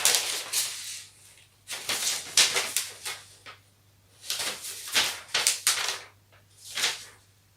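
Paper rustling in four bursts with short gaps between, as instruction sheets are handled and leafed through.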